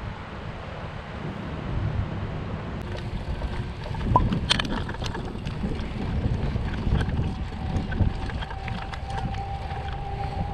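Wind buffeting the microphone of a moving bicycle, a gusting low rumble, with a few sharp clicks and rattles about four seconds in.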